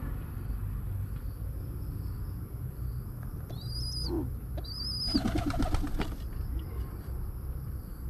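Birds in a pigeon loft: two short high chirps, each rising then holding, a little past the middle, followed by about a second of rapid fluttering pulses, over a steady low rumble.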